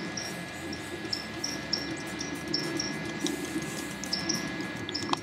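A short high chirp repeats about three times a second over a steady low rush, with a few faint clicks.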